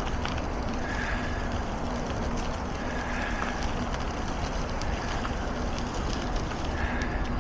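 Wind rushing over the microphone of a moving bicycle, with a short high squeak repeating about every two seconds.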